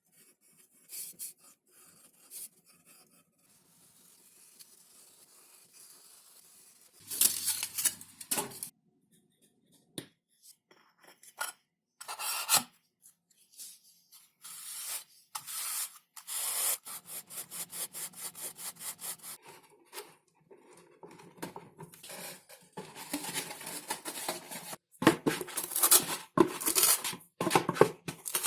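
Hand work on thin XPS (Depron) foam sheet: rubbing and scraping strokes. They come scattered at first, then in a run of even strokes partway through, and grow denser and louder near the end.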